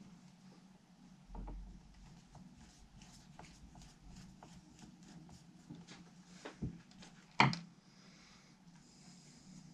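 Small clicks, taps and rubbing of parts and tools being handled on a workbench, with a soft thud about a second in and one sharp knock near the end, over a steady low hum.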